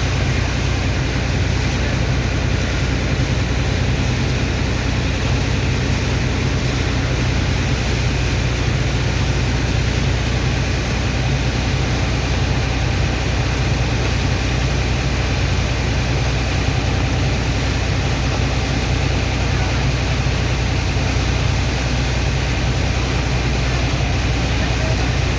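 Sand dredger's heavy diesel pump engine running steadily at a constant speed, with a continuous rushing noise over its low hum.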